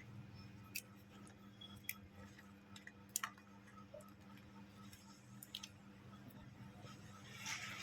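Faint, scattered clicks and taps of small repair tools and plastic phone parts being handled, a few seconds apart, over a low steady hum.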